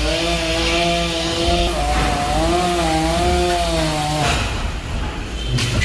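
Chainsaw cutting through a cluster fig tree, its engine pitch wavering as it loads in the wood, dipping briefly about two seconds in and stopping about four seconds in.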